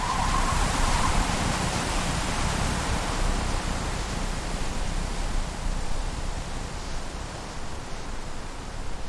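A steady rushing noise with a low rumble underneath.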